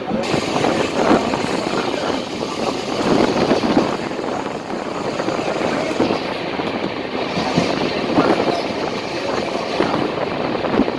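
Express passenger train running at speed, heard from its coach door or window: a steady rush of wheel and wind noise with frequent irregular clatter from the rails.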